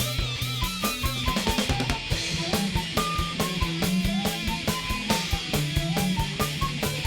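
A thrash metal band jamming live: a drum kit keeps fast, regular hits under held low bass and guitar notes, while a lead line plays short high notes that step up and down.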